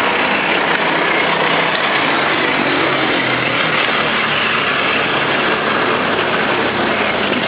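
Electric ride-on toy motorcycle's motor and gearbox running steadily as it drives along.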